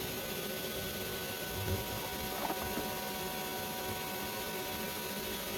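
Steady electrical hum with an even hiss, with a couple of light clicks about two seconds in. This is typical of a stick welding machine humming at idle between beads rather than an arc burning.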